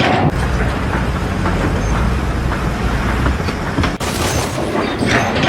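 Loud, steady low mechanical rumble of heavy machinery, broken by a sudden cut about four seconds in before the rumble resumes.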